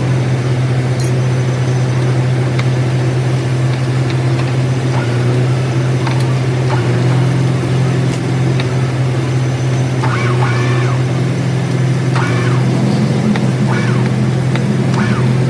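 A workshop machine's motor running steadily with a loud, low, even hum, with a few faint clicks over it.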